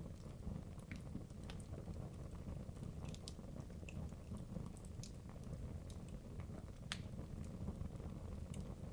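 Wood logs burning in a fireplace: a low steady rush of flame with irregular sharp crackles and pops, the sharpest about seven seconds in.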